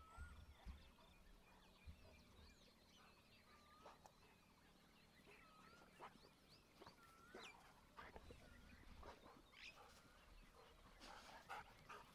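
Faint birdsong in open country: a short hooked whistle repeated every second or two, with scattered thin high chirps. Near the end, louder short noises from a dog coming close.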